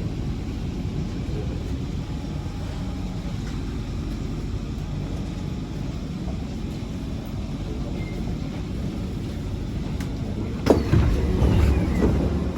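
Inside a Kawasaki C151 MRT train pulling into a station: a steady low rumble. About ten and a half seconds in, a sudden loud clatter and rattle as the train's doors open.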